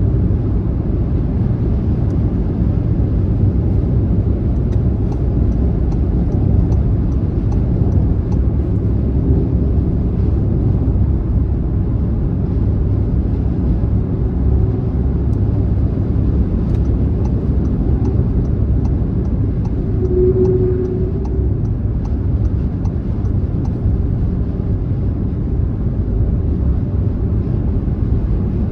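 Car driving at speed on a motorway: a steady low road and engine rumble. Twice a faint quick ticking, about three a second, runs over it for a few seconds.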